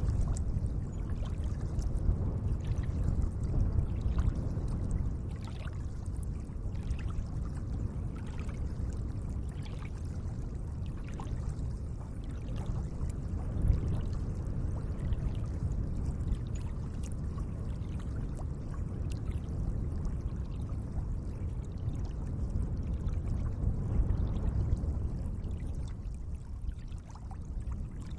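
Lake water lapping and trickling gently: a steady low wash scattered with many small splashes and drips.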